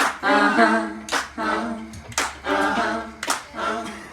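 A cappella singing voices over hand claps on the beat, one sharp clap about every second.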